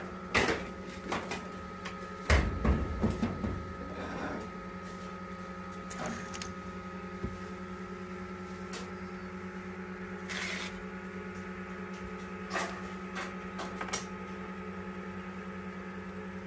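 Egg incubator running with a steady electric hum. Scattered clicks and knocks sound over it, loudest about two to three and a half seconds in.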